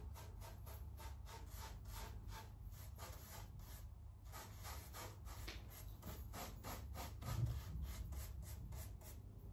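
Quick, repeated rubbing strokes on a styrofoam panel, about three or four a second, as paint is worked on for a brick pattern.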